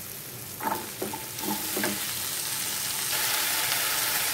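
Diced potato, kept in water, going into a hot pan of frying onion and dried Bombay duck: a few knocks in the first two seconds, then the sizzle grows louder as the wet potato meets the oil.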